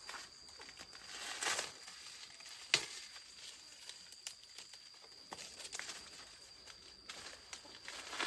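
Dry corn husks and leaves rustling and crackling as they are handled, with a sharp snap about three seconds in.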